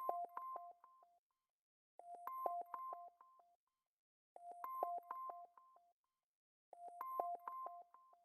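A short electronic plucked-note melody on two or three pitches, looping identically about every two and a half seconds with silence between repeats: four repeats in all.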